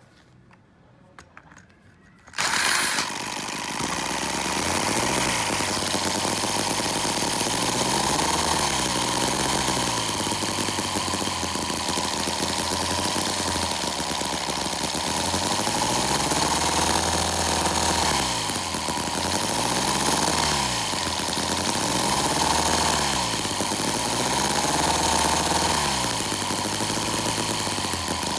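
A small model engine starts running suddenly about two and a half seconds in and keeps running, its pitch rising and falling in slow swells.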